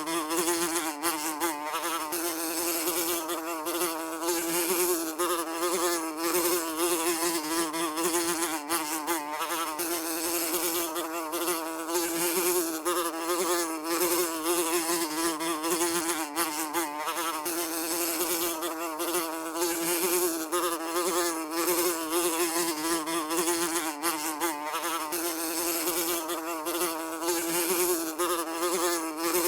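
A fly buzzing continuously, a steady wing hum whose pitch wavers slightly as it flies about.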